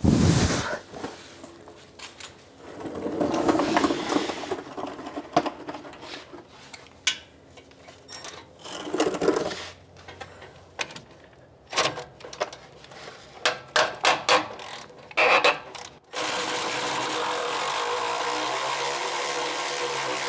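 Hand tools on the truck's exhaust bolts: a sharp metal knock, then scattered ratchet-wrench clicks and short metallic rattles. From about three-quarters of the way through, a steady hiss takes over.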